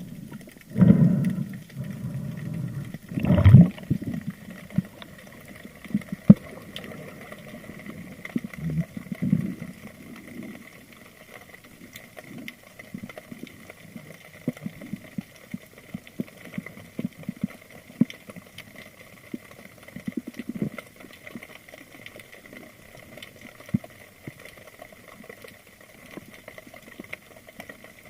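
Underwater sound on a spearfishing dive: two loud rushes of water or bubbles near the start, then scattered faint clicks and crackles.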